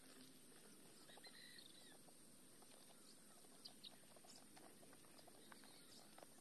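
Near silence: faint outdoor quiet with one soft bird chirp about a second in, and a few light knocks and rustles near four seconds in as a cage is handled and set down.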